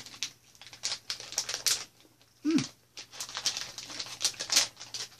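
Close-up chewing of a gummy bear: irregular wet mouth clicks and smacks, with a short "mm" about two and a half seconds in.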